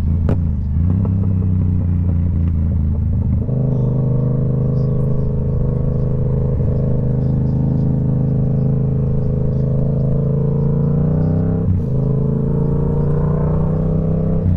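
Motorcycle engine running under way, its pitch stepping up about three and a half seconds in and then holding steady. Near twelve seconds it breaks briefly, then climbs slowly as the bike picks up speed.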